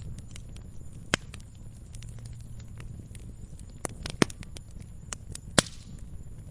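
Fireplace fire crackling: many small ticks over a low steady rush, with a few sharp pops, the loudest a little over five seconds in.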